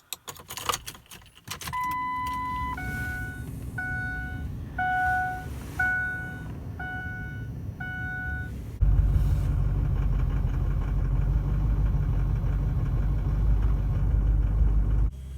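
Keys jangling and clicking, then a truck's dashboard warning chime: one long tone, then a repeating beep about once a second, six times. About nine seconds in the truck's engine starts and runs steadily.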